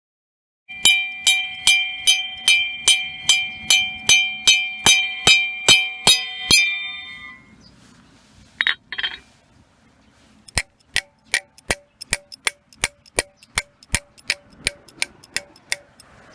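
A run of evenly spaced ringing metallic clinks, a little over two a second, each with a high bell-like tone that fades into a smear. After a short pause comes a second, slightly faster run of clinks with a lower ring.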